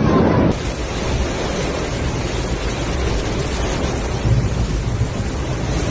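Storm wind and heavy rain as a steady rushing noise, with gusts buffeting the microphone in uneven low rumbles, the strongest about four seconds in.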